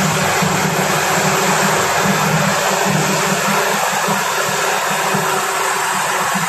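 Heavy diesel farm machinery running steadily under load, a constant dense engine and mechanical noise with a low pulsing drone.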